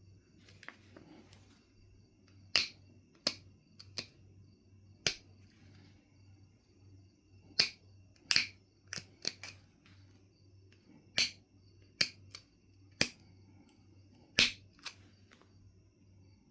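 Knife River Flint being knapped: about fifteen sharp, irregularly spaced clicks as flakes are detached from the stone.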